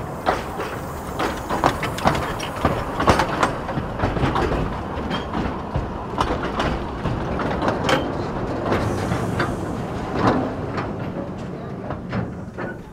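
A narrow gauge steam locomotive and its coaches rolling slowly past into the station, the wheels clicking and clattering irregularly over the rail joints above a steady rumble.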